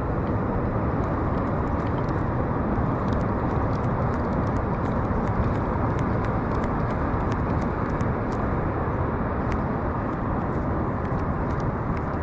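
Steady low rushing noise, typical of wind buffeting the microphone, with faint scattered ticks over it.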